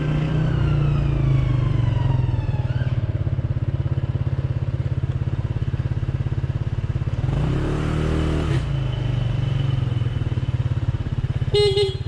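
Motorcycle engine running on the road, its pitch falling over the first few seconds as it slows. About seven seconds in comes a brief louder swell.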